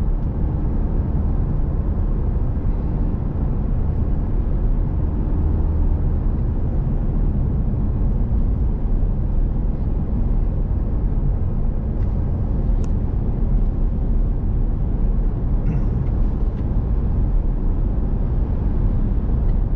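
Steady road and engine noise of a vehicle heard from inside the cabin, an even low rumble with no change in level.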